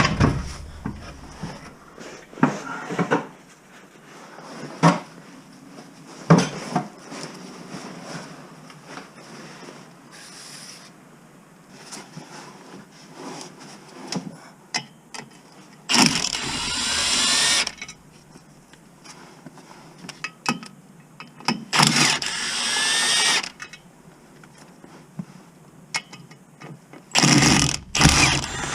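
Several sharp knocks and clicks of hand work, then a cordless power tool running in three bursts of about a second and a half each.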